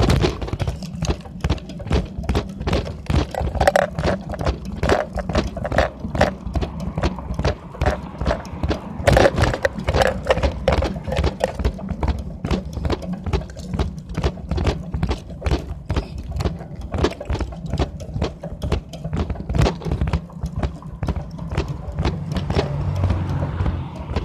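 Loose items in a bicycle basket shaking and clattering as the bike rides along, a fast, uneven rattle over a steady low rumble of rolling and wind.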